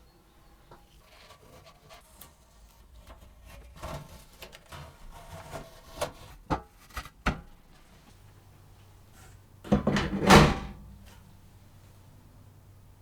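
A run of small knocks and clicks, then a louder sliding scrape lasting about a second, about ten seconds in: parts being handled and moved at a workbench.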